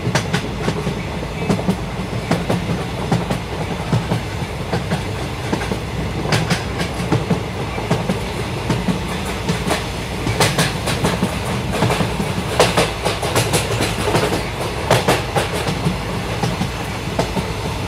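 Passenger train running along the track: a steady rumble with irregular clicks and clacks of the wheels over the rails, bunched in clusters.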